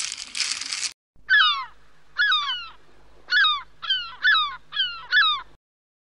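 Plastic packaging crinkling in hands for about a second, then, after a cut, a run of seven short bird calls, each falling in pitch.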